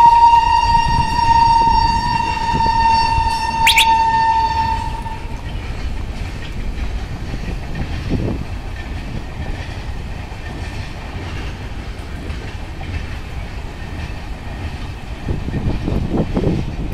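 Passing electric-hauled Tejas Express train: the locomotive's horn holds one long steady blast that stops about five seconds in, over the continuous rumble of the train. The rumble and rattle of the coaches' wheels on the track carry on and grow louder again near the end.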